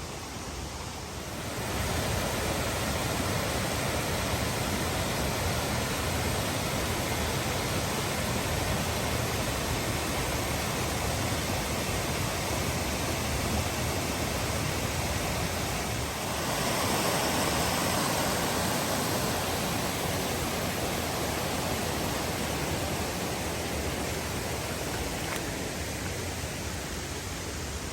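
Shallow river rushing steadily over small rapids, swelling a little louder for a few seconds past the middle.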